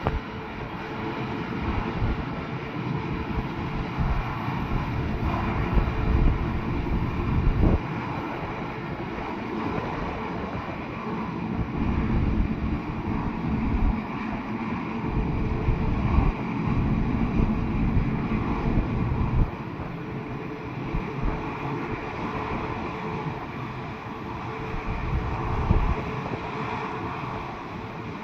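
Airbus A340-600's four Rolls-Royce Trent 500 jet engines running steadily, with a faint steady tone above the roar. Wind buffets the microphone in uneven gusts.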